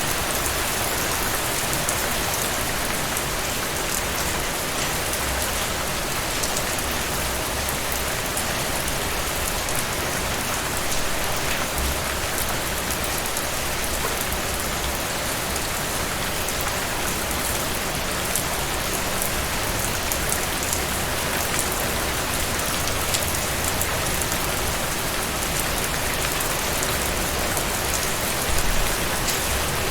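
Steady heavy rain falling on a surface, a dense even hiss with fine drop patter throughout.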